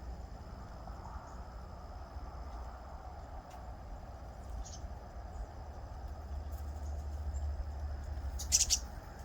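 Short sharp bird calls, one about halfway and a louder double call near the end, over a low steady rumble of wind on the microphone.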